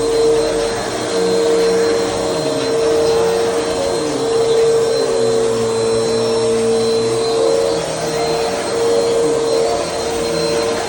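Bissell Helix vacuum cleaner running with a steady hum. Lower tones beneath it waver up and down.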